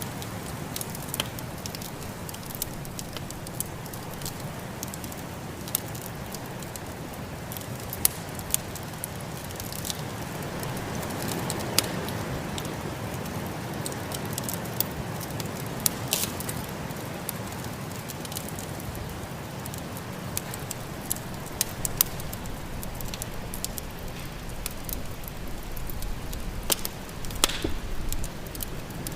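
Wood fire crackling, with sharp pops scattered irregularly and a cluster of louder pops near the end, over a steady low rush of snowstorm wind.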